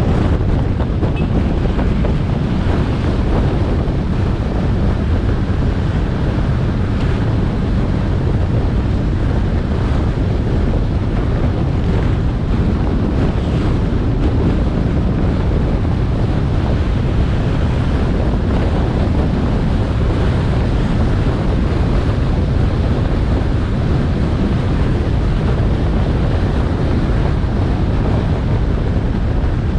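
Steady low wind rumble on an action camera's microphone on a moving motorbike, with the motorbike's engine and tyre noise under it.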